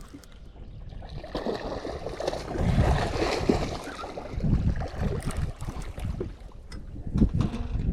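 Water splashing and sloshing, with irregular knocks against a boat, as a just-netted blue catfish thrashes and is brought aboard. The splashing is heaviest in the first half.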